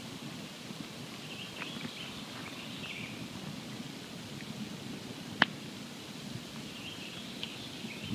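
Campfire burning with a steady low rustle and a few small crackles, and one sharp, loud pop about five and a half seconds in.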